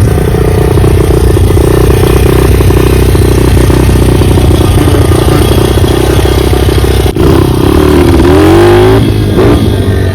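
Dirt bike engine running steadily under throttle, then revving up and down several times over the last few seconds.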